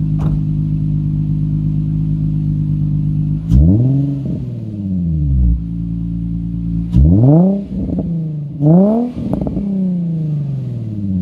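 Infiniti G35 coupe's 3.5-litre V6 idling through an ISR single-exit cat-back exhaust on stock headers, cats and Y-pipe, blipped three times: once about three seconds in, then twice in quick succession near the middle. Each rev climbs sharply and drops back to a steady idle, with a smooth, not very raspy exhaust note.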